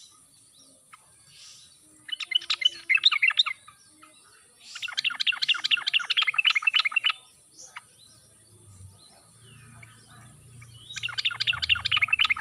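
Yellow-vented bulbul (trucuk) singing: three phrases of rapid repeated notes, each lasting about one and a half to two and a half seconds, with pauses between them. The last phrase begins near the end.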